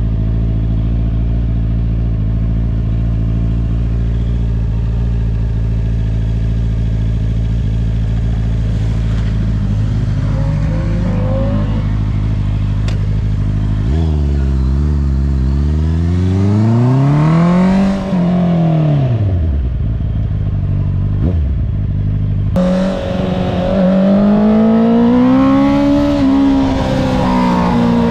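Honda CBR650R inline-four with an aftermarket Akrapovič exhaust idling steadily, then about halfway through revving and pulling away. The engine note climbs and drops back twice as it accelerates and eases off.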